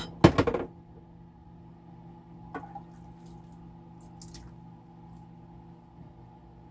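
A glass jar of thick tomato sauce being emptied: a quick cluster of knocks and clinks at the start, then a couple of lighter taps a few seconds apart as the sauce squelches and drips out. A steady low hum runs underneath.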